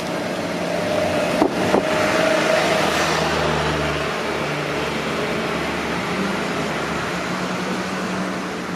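Electric train running on the JR Minobu Line: a steady rumble with a faint held whine, and two sharp clacks close together about a second and a half in. The sound swells for a few seconds, then eases off slowly.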